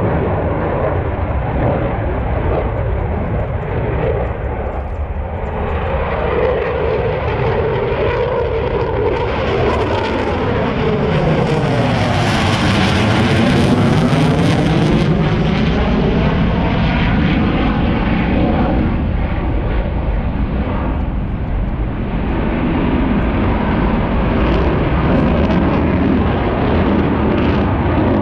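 A fixed-wing aircraft flying past, its engine noise loud throughout. About halfway through, the noise is brightest and its tone sweeps down and back up as the aircraft passes closest, then it eases off.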